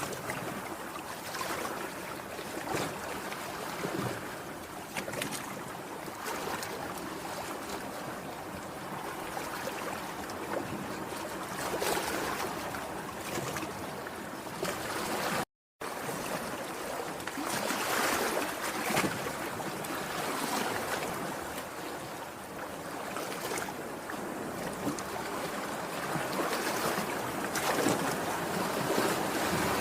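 Sea waves breaking and washing ashore, a steady rush of surf that swells and eases every few seconds. The sound cuts out completely for a split second about halfway through.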